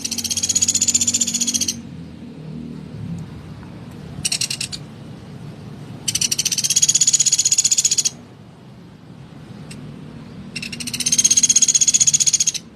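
Pelatuk beras woodpecker giving harsh, rapid rattling calls: three high-pitched trills of about two seconds each, with a short burst between the first two.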